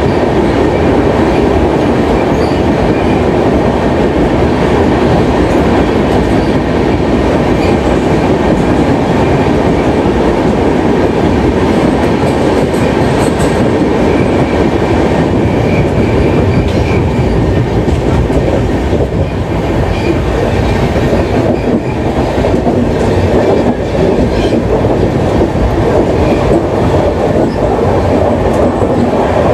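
Indian express passenger train running along the track, heard from on board: a steady, loud rumble of wheels on rails with clickety-clack.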